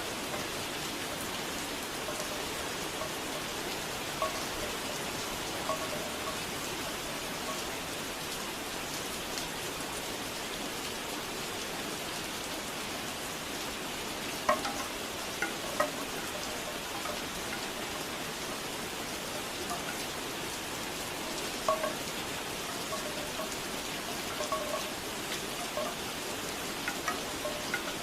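Steady rain falling, with bamboo wind chimes knocking now and then: a few single knocks, then small clusters about halfway through and again near the end.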